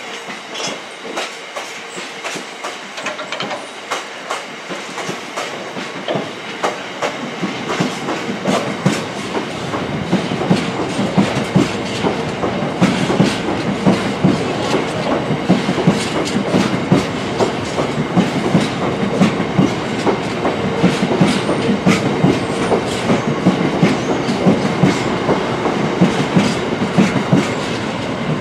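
Freight train wagons rolling past, their wheels clattering over the rail joints in a steady run of clicks. A deeper rumble builds and the sound grows louder from about eight to ten seconds in.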